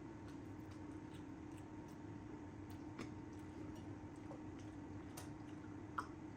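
Faint chewing with a few scattered mouth clicks while eating mutton curry and rice, over a steady low hum.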